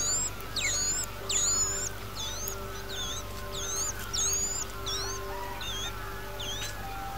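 A bird giving a rapid series of high, sharp up-swept chirps, about two a second, fainter in the second half. Soft background music holds steady tones underneath.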